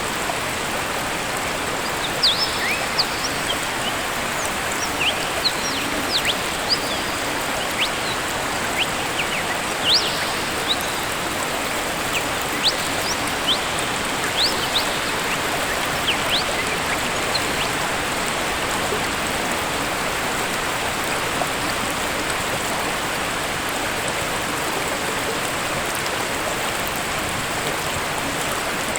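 Waterfall rushing steadily, with short, high bird chirps scattered through the first half or so before the water carries on alone.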